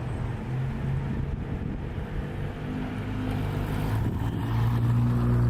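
A motor engine running with a steady low hum, growing louder near the end.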